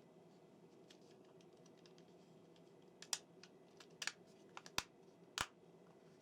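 Faint clicks and taps of small plastic N gauge model-train parts being handled and fitted together: about half a dozen sharp clicks in the second half, over a low steady hum.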